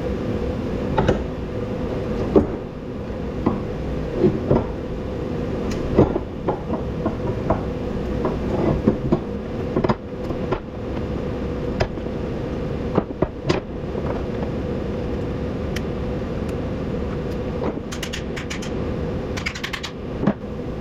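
Metal clanks, clicks and knocks of hand tools working on a scrap electric motor, irregular and scattered over a steady mechanical hum.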